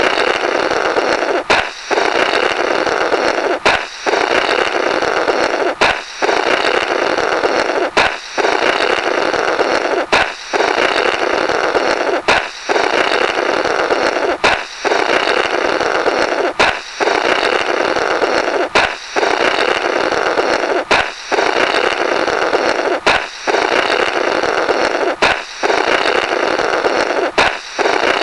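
Balloon bursting with a sharp pop, followed by a rubbery 'blorrrt' of air blown through the broken balloon. The pop-and-blow repeats about every two seconds as a seamless loop.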